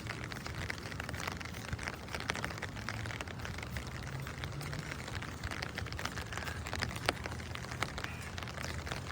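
Rain falling: a steady patter of many small drops, with a low steady hum beneath.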